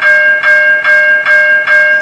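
Railroad grade-crossing bell ringing loudly and steadily, about two and a half strikes a second, each strike ringing on: the crossing warning is active.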